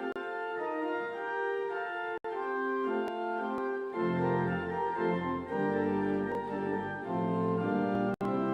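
Church organ playing slow, sustained chords; deep bass notes come in about halfway through. The sound cuts out for an instant a couple of times.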